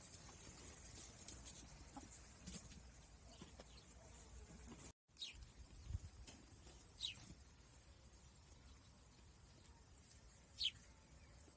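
Faint bird chirps: three short calls, each falling quickly in pitch, in the second half, the last one the loudest, over near-silent outdoor hiss.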